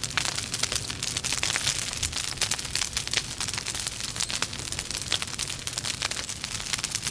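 Wood logs burning in a fireplace, crackling steadily with many sharp snaps over a soft hiss of flame.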